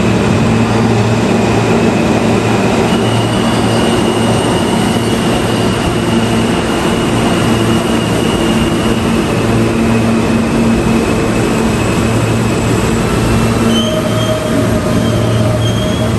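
New York City subway train running, a loud steady rumble with thin high wheel squeals from about three to nine seconds in, and short squeals again near the end.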